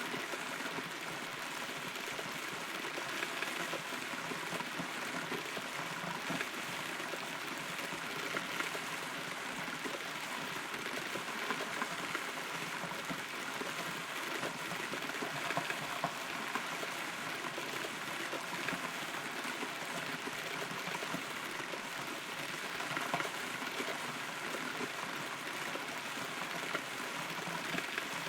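Steady rain falling on a rotten hollow tree, heard from inside the trunk, with scattered individual drops ticking a little louder now and then.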